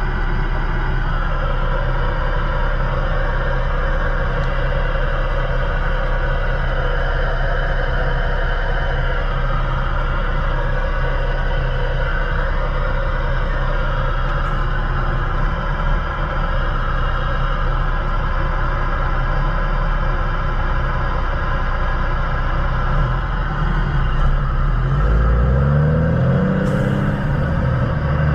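Semi-truck diesel engine droning steadily while driving, with tyre and road noise. Near the end the engine pitch climbs and sweeps, as the revs change with a gear shift or acceleration.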